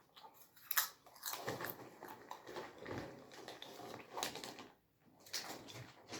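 Someone chewing and biting food close to the microphone: irregular crunches and clicks.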